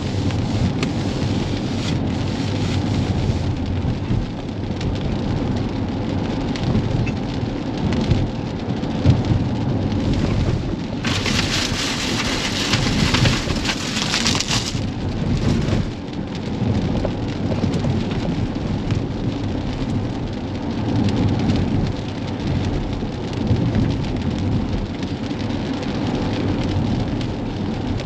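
Rain striking the roof and windshield of a Tesla Model X, heard from inside the cabin as the car drives, over a steady low rumble. About eleven seconds in, a louder, brighter hiss rises for a few seconds, then drops back.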